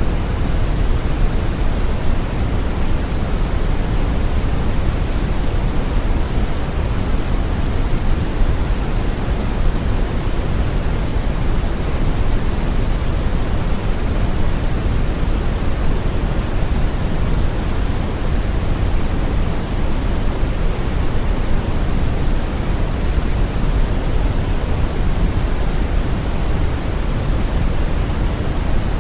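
Brown noise: a steady, even rumbling hiss, strongest in the lows and without any change or events.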